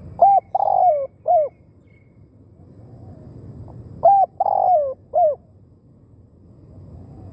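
Spotted dove cooing: two three-note phrases, a short coo, a longer rolling coo and a short closing coo, about four seconds apart. It is the call used to lure wild doves in decoy trapping.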